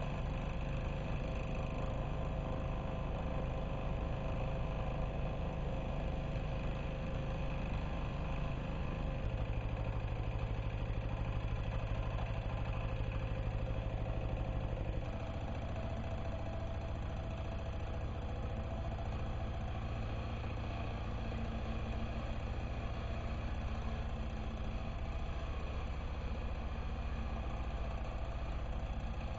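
Diesel walk-behind tractor engine running steadily, its low note changing about halfway through.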